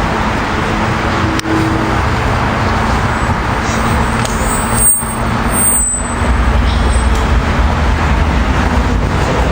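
Steady road traffic noise with no speech. A deeper low rumble builds about six seconds in, as of a heavier vehicle passing.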